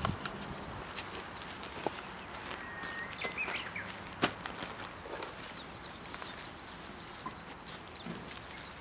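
Small birds chirping in short, quick high calls, with a few sharp knocks from handling or footsteps.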